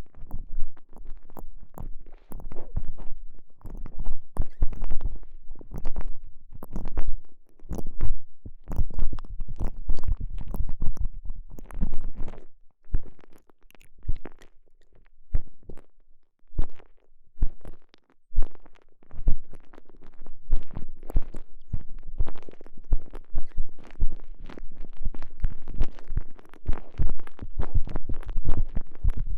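Close, muffled squishing and rubbing of a TENGA Egg's stretchy elastomer sleeve squeezed and worked around a microphone inside it: irregular soft squelches and rubs, thinning out to a few scattered ones in the middle and growing busier again near the end.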